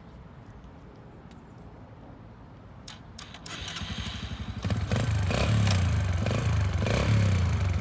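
Small four-stroke single-cylinder engine of a Yamaha TTR125LE youth trail bike starting up after a few clicks about three seconds in, then running steadily with an even pulse.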